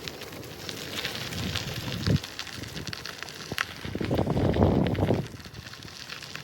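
Wind buffeting the microphone, with a strong gust from about four seconds in that drops away after a second, over scattered crackling ticks.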